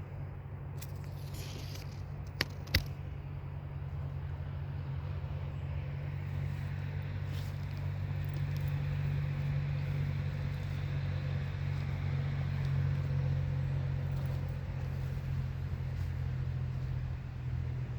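A motor vehicle's engine running steadily with a low hum, swelling a little in the middle as if drawing nearer and passing. Two sharp clicks sound about two and a half seconds in.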